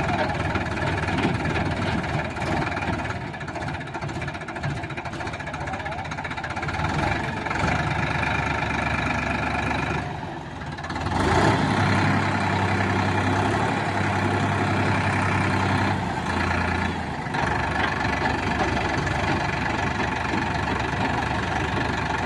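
Diesel tractor engine running. About ten seconds in it dips briefly, then comes back louder with a steady low hum for roughly six seconds before settling back.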